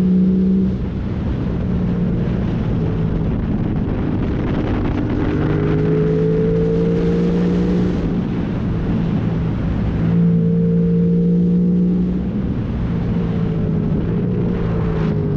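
Yamaha MT-07 parallel-twin engine breathing through a full MIVV exhaust with the catalytic converter removed and no dB killer. The engine note climbs under throttle and falls back several times as the bike is ridden hard through bends, dropping off about a second in, again around eight seconds and again around twelve seconds before rising again.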